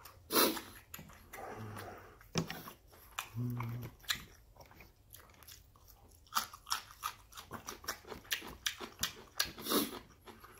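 Close-up crunching and chewing of cubed radish kimchi, a quick run of crisp bites and mouth sounds. A short hummed 'mm' comes about three and a half seconds in.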